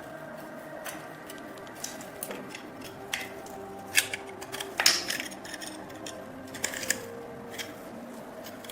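Irregular light clicks and taps of small hard metal objects being handled and set down, loudest about four and five seconds in, over faint background music.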